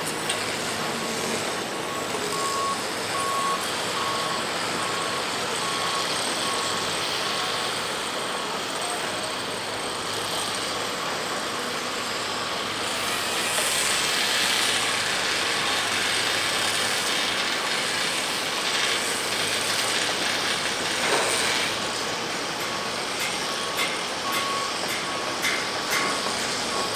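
Boeing 747-400 jet engines running during departure, a steady roar and hiss that swells about halfway through and eases off again. A faint repeating beep comes and goes underneath.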